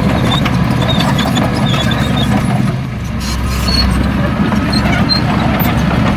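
Heavy diesel engine of earthmoving machinery running steadily, dipping briefly about three seconds in and then picking up again.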